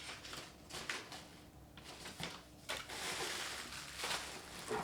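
Packing material rustling and crinkling as a parcel is unpacked by hand: a run of short scrapes and rustles, with a longer stretch of steady rustling from a little under three seconds in.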